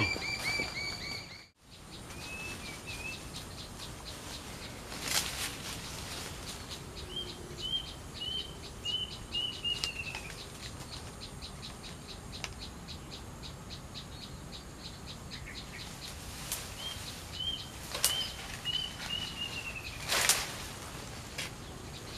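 A bird calling twice, each time a series of about six short, quick whistled notes, over a fast, even ticking and a few brief rustles in the grass. It opens with a steady high tone lasting about a second and a half.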